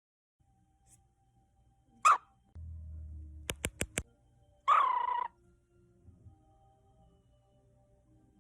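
Short animal calls: a sharp call about two seconds in and a longer one near the middle, with four quick clicks between them.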